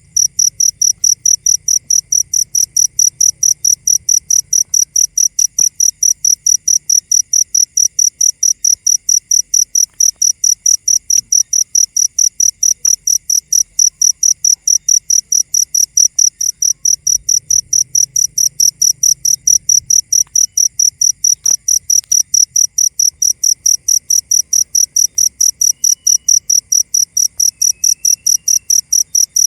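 An insect chirping steadily in a very even rhythm, about three high-pitched chirps a second.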